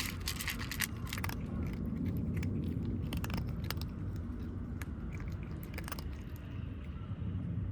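Stray kittens chewing food, with crisp irregular crunches that come in clusters, densest in the first second and a half.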